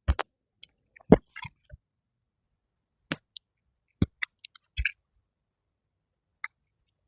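Scattered sharp clicks and light knocks from hammock suspension straps and hardware being handled. There are about a dozen in the first five seconds, some in quick little clusters, and one more near the end.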